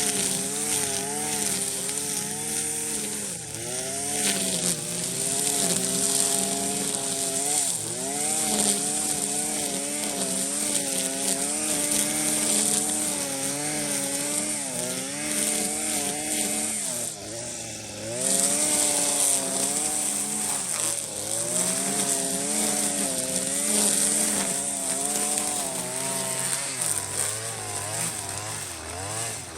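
Small petrol engine of a handheld power tool running under load, its pitch rising and falling again and again as the throttle is worked, with a brief drop in revs about two-thirds of the way through.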